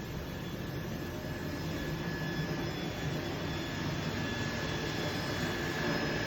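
Kunzmann WF 650 vertical machining center running: a steady mechanical hum and rush with a thin high whine that grows stronger about halfway through.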